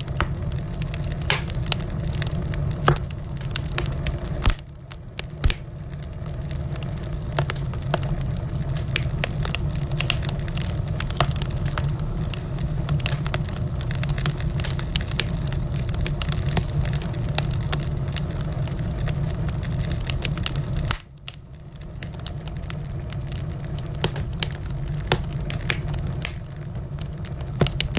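Wood fire in a fireplace crackling, with frequent irregular sharp pops over a steady low rumble. The level drops briefly about a sixth of the way in and again about three-quarters through.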